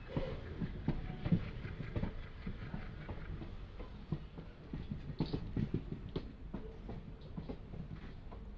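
Passenger train running on the rails: a low rumble with irregular clicks and knocks from the wheels and the coaches, loudest about a second in and again around five to six seconds in.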